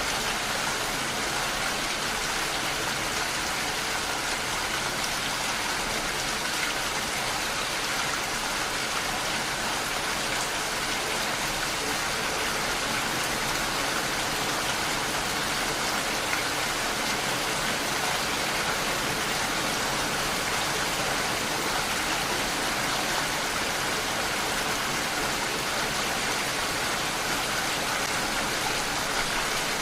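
Steady rainfall, an even hiss of rain with no breaks or changes.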